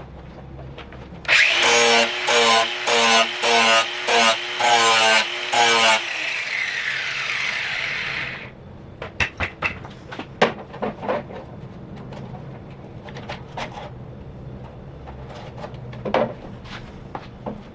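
Angle grinder grinding a steel blade in about seven short, loud passes over some four seconds. The grinder then winds down with a falling whine. After that come scattered clicks and knocks as the blade and tool are handled.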